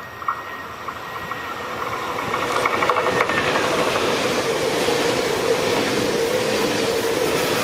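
Train approaching and passing, growing louder over the first three seconds, then a steady rolling rumble with a steady hum.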